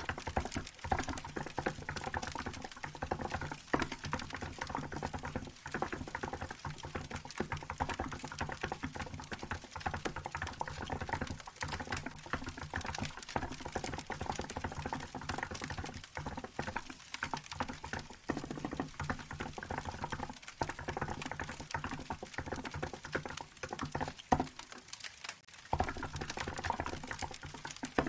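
Continuous fast typing on a Hansung GK868B mechanical keyboard with milk-white keycaps: a dense, uneven stream of key clacks with a brief pause a little before the end. A wood fire crackles softly underneath.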